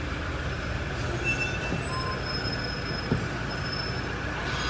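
Steady low vehicle rumble with faint high-pitched whines, louder for a moment about two seconds in.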